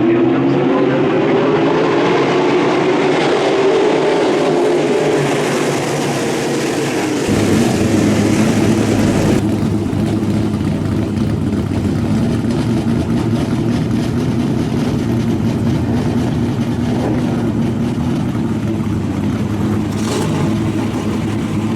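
Car engine running hard, its pitch rising over the first few seconds, then a steadier engine drone with abrupt changes about seven and nine seconds in.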